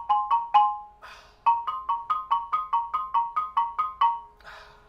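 Xylophone played with two mallets, struck near the edge of the bars: a fast, even run of strokes at about four to five a second, each stroke sounding two notes together. The run breaks off briefly about a second in and again near the end.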